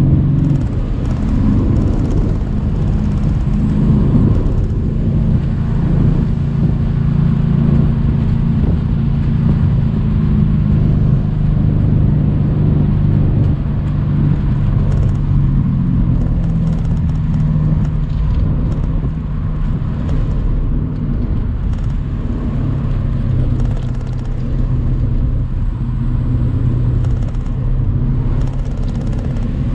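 Mercedes-AMG C63 cabriolet's twin-turbo 4.0-litre V8 running at a steady, even cruise with only small changes in pitch. Tyre and wind noise from the open-top car lie underneath.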